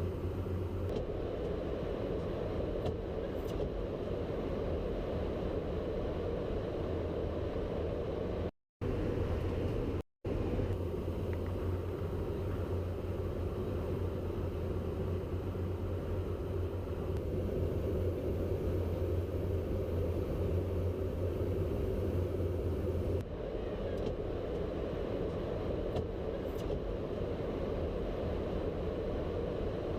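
Steady rumble of aircraft engines with a constant low hum. It cuts out abruptly twice, briefly, a little before and after the tenth second.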